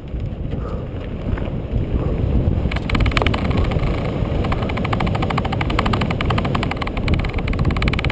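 Mountain bike descending a trail: a steady low rumble of tyres and wind on the mount. From about three seconds in, a rapid, continuous clicking joins it, typical of a freewheel hub buzzing while the bike coasts, with the frame rattling over rough ground.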